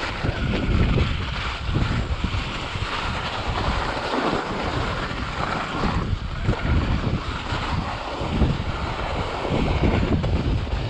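Wind buffeting the microphone: a loud, unsteady rushing noise with heavy low rumble.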